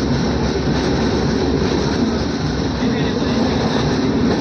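Steady running noise of an express train heard from inside a moving sleeper coach: an even rumble and rush of wheels and air, with no distinct clicks or horn.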